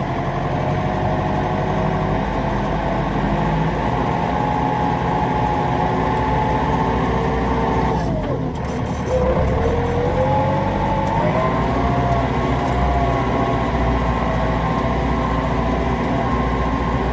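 New Holland tractor's diesel engine running hard while hauling logs. Its revs dip about halfway through, then climb again.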